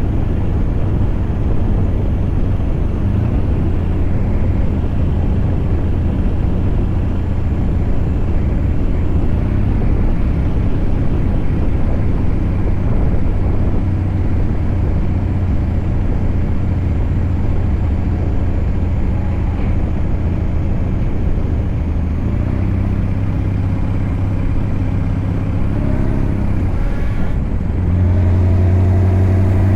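Scania V8 diesel truck engine running steadily under way. Near the end its pitch shifts, there is a brief break, and then it runs louder.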